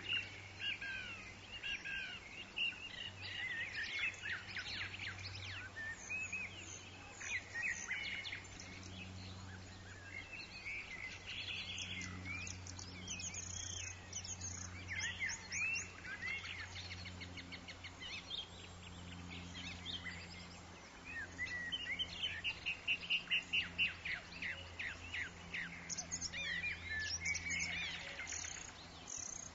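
Several forest birds calling and singing at once in quick chirps and whistles, with a fast trill about three-quarters of the way through, over a steady low hum.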